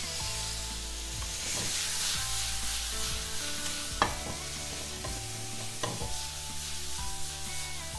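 Sliced mushrooms and onions sizzling in hot oil in a frying pan, stirred with a spatula that clicks against the pan a few times, most clearly about four and six seconds in.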